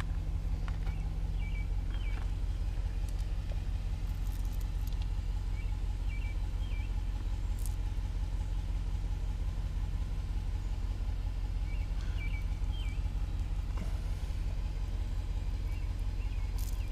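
A motor vehicle's engine running steadily as a low, even rumble, with a few faint short high chirps over it.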